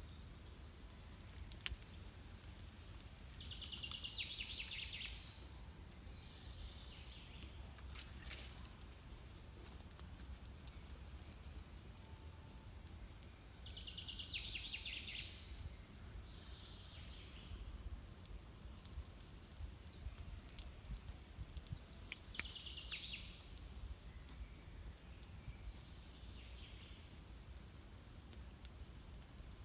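A songbird singing the same short, high phrase about every nine seconds, four times in all. Each phrase is a brief note that drops into a fast trill, followed by a fainter note. A faint low rumble and scattered soft clicks run underneath.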